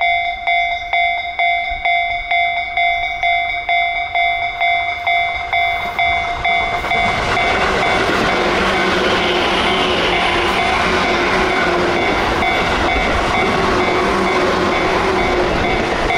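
Level-crossing warning bell clanging steadily about twice a second. From about seven seconds in, a Tobu electric commuter train passes close by, and the dense rumble of its wheels on the rails all but covers the bell.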